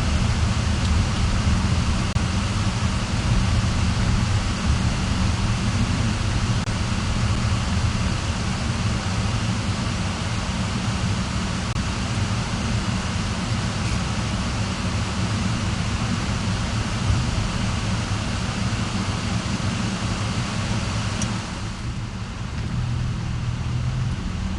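Steady rumble and hiss of a car driving, engine and road noise with no pauses; the hiss thins out about three seconds before the end.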